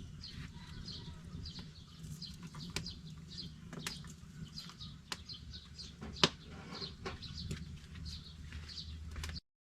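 A small bird chirping over and over, about twice a second, over a low rumble with scattered sharp clicks; the sound cuts off suddenly near the end.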